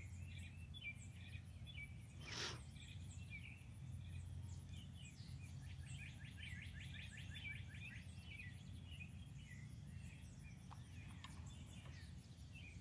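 Several songbirds chirping and whistling, with a fast trill of repeated notes near the middle, over a steady low background rumble. A brief rush of noise cuts across about two seconds in.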